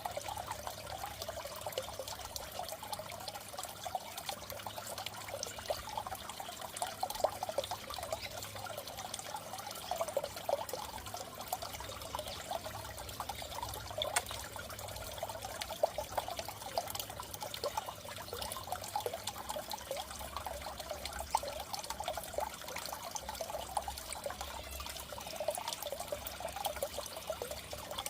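Water trickling steadily in a goldfish tank, a continuous gentle splashing with small flickers of sound throughout.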